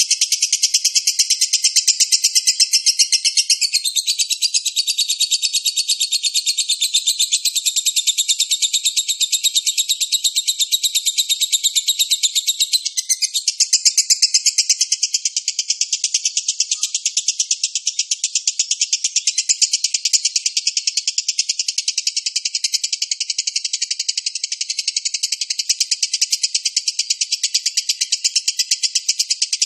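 Lovebird giving a long unbroken "ngekek" bout: a rapid, high-pitched chattering trill that runs on without a pause.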